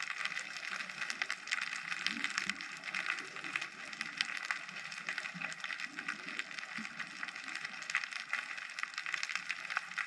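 Underwater ambience recorded by a GoPro: a dense, steady crackle of countless tiny clicks, the natural background of the sea.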